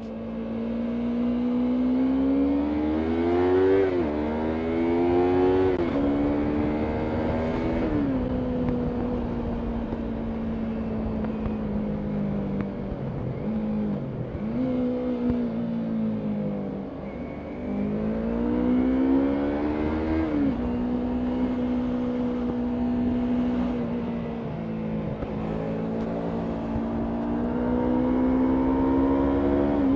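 Yamaha MT-03 motorcycle engine accelerating hard, its pitch climbing and dropping back at upshifts about 4, 6 and 8 seconds in, then running at a steady cruise with a brief ease-off and another climb and upshift near the two-thirds mark.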